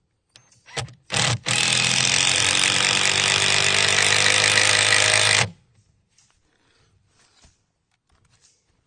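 Power driver running a screw into treated-wood stair stringers: a short burst, a brief pause, then about four seconds of steady driving that stops abruptly as the screw seats.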